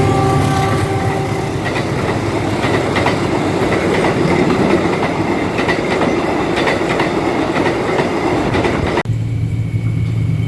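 A locomotive horn dying away in the first second and a half, its chord sliding slightly lower, then a passing train's wheels clattering over rail joints with a steady rushing rumble. About nine seconds in the sound cuts to a steady low hum.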